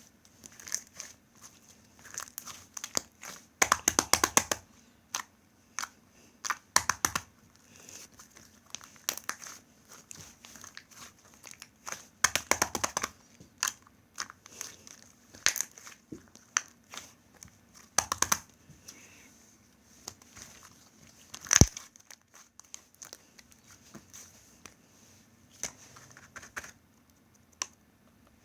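Homemade slime being squeezed and stretched by hand, with bursts of rapid crackling clicks as trapped air pops; the sharpest single pop comes about three-quarters of the way through.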